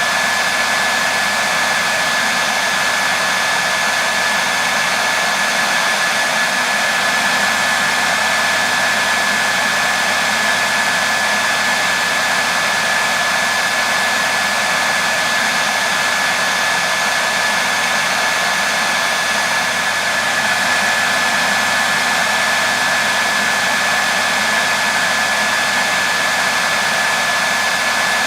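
Hair dryer running steadily, a constant rushing blow of air with a thin steady whine from its motor.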